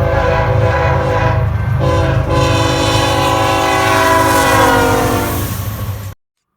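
Diesel freight locomotive's multi-note air horn sounding over the heavy rumble of the engine: a short blast, a brief break, then a long blast whose chord slides lower as the locomotive passes. The sound cuts off suddenly about six seconds in.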